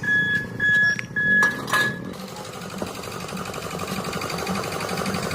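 Four short high electronic beeps in the first two seconds, then a steady rhythmic clatter that slowly grows louder.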